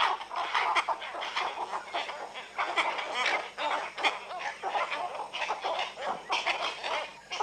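A roost of cattle egrets calling, a dense clamour of many overlapping calls from the flock.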